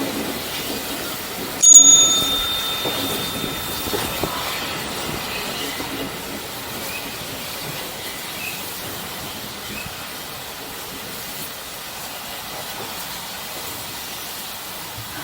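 Steam-hauled heritage train running, a steady rumble, with one sharp metallic clang about two seconds in that rings on for a couple of seconds before fading.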